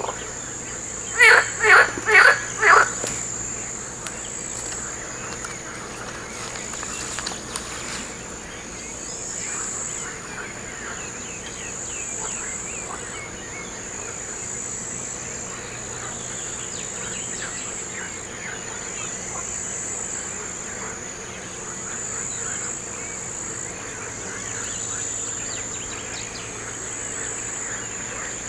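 Crickets or other insects trilling steadily at a high pitch, with faint scattered bird chirps. About a second in come four loud calls in quick succession, the loudest sound here.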